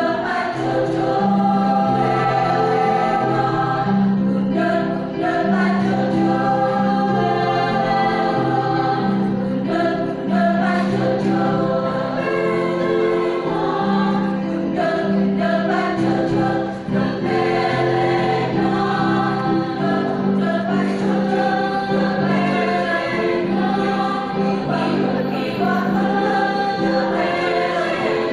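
Community choir singing a song in several-part harmony, with long held notes.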